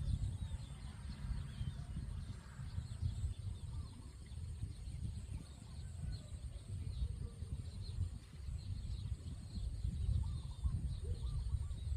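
Birds calling and chirping faintly in a rural morning ambience, over a loud, uneven low rumble.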